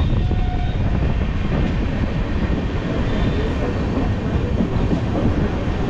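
Passenger train coaches rolling on the rails alongside a station platform, a steady rumble of wheels and running gear heard from inside the coach.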